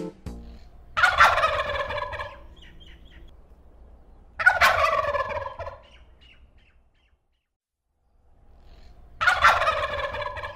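Domestic turkey gobbling three times, each gobble a rapid rattling call about a second long, a few seconds apart.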